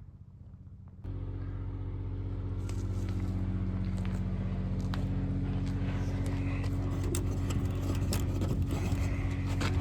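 An engine running at a steady speed, stepping up sharply in loudness about a second in, with clicks and rattles over it from a few seconds in.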